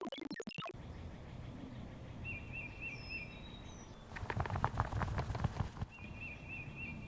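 Electronic music cuts off within the first second, giving way to outdoor ambience with a steady low rumble. A bird calls twice in runs of short, quickly repeated chirps, and between them a louder burst of rustling, crackling noise lasts about two seconds.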